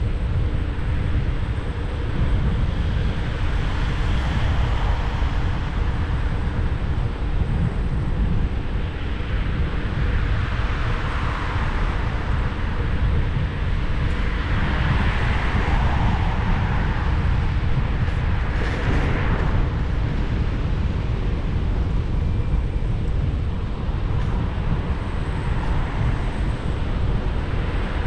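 Wind rumbling on the microphone of a rider on a Xiaomi 1S electric scooter, with city traffic noise that swells several times as vehicles pass, clearest around 11, 15 and 19 seconds in.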